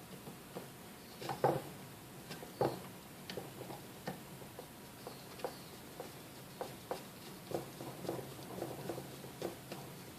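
Irregular light clicks and taps of small parts and tools being handled while a Sunbeam Mixmaster motor is taken apart, the two loudest knocks near the start.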